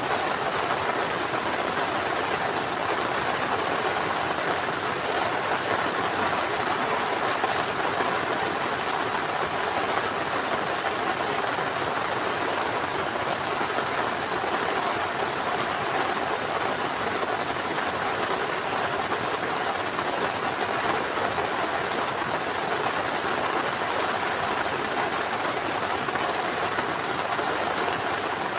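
Heavy rain falling steadily, a dense even hiss of raindrops with no letup.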